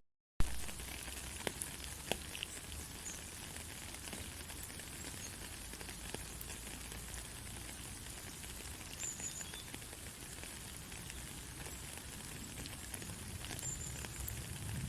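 Gentle rain falling steadily, an even hiss of pattering drops with scattered individual drop clicks. A brief gap of silence at the very start ends in a sharp click.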